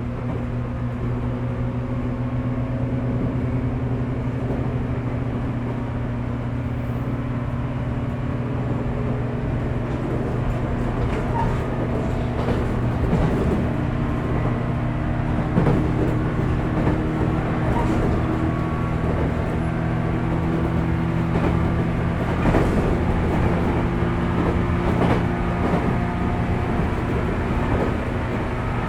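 JR 415-series electric train running, heard inside the motor car MoHa 414-1501 below its pantograph: a steady rumble of wheels and running gear with humming motor tones. From about halfway through, irregular clacks from the wheels on the track join in.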